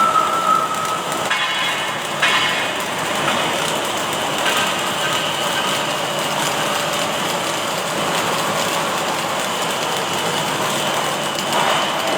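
Automatic welding machine running, with a steady hiss of the welding arc and machine noise, and short rattles about one and two seconds in.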